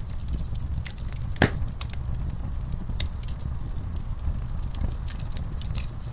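Wood fire in a fireplace crackling: a steady low flame noise with frequent sharp pops and snaps, one louder pop about a second and a half in.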